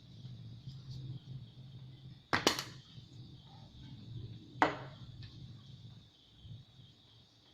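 Two sharp snaps or clicks of hard material, a quick double about two seconds in and a single one about two seconds later. Under them run a low steady hum and a faint high steady hiss.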